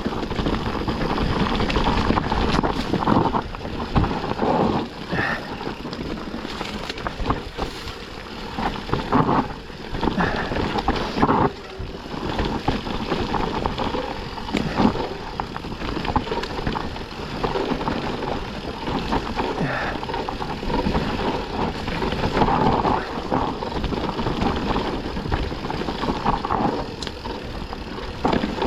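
Yeti SB160 full-suspension mountain bike descending a dry, rough trail: a steady rush of tyres on dirt and wind on the microphone, broken by frequent knocks and rattles from the bike over rough ground.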